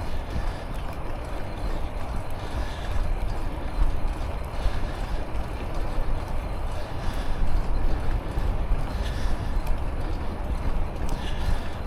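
Wind buffeting the microphone of a neck-mounted action camera on a moving bicycle, a steady rough rumble that swells and dips.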